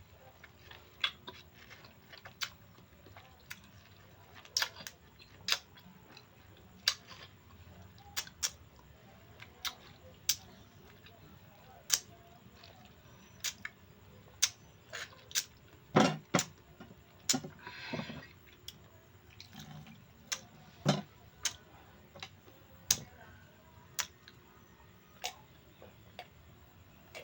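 Eating sounds close to the microphone: a run of sharp, irregular mouth smacks and chewing clicks, about one a second, with a short hiss about two-thirds of the way through.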